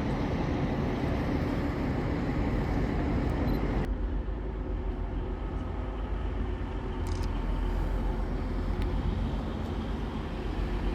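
A train's steady low rumble. About four seconds in, the higher hiss suddenly falls away and the low rumble carries on.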